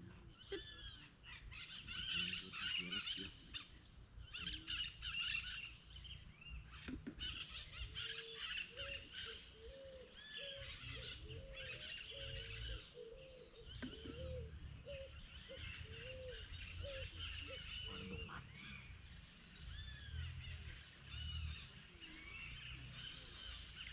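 Several small birds chirping and calling in quick, overlapping high notes, with a lower call of short rising-and-falling notes repeated about twice a second from about eight seconds in until about eighteen seconds in. A low rumble runs underneath.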